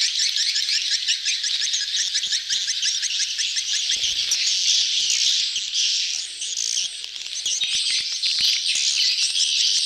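Dense chorus of many edible-nest swiftlets twittering, with rapid, overlapping high chirps. It is the crowded breeding-colony chatter used as a lure call to draw swiftlets into a swiftlet house.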